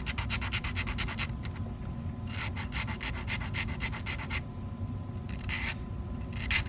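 Hand file scraping the cut edge of a small 14k gold prong, in runs of rapid rasping strokes with a pause of about two seconds in the middle.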